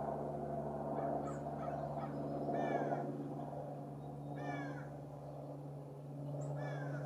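California scrub-jay giving a few short, harsh, downward-sliding calls about two seconds apart, over a steady low hum.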